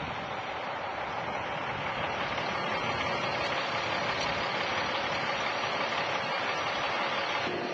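A vehicle engine running steadily under a constant hiss of noise, changing slightly near the end.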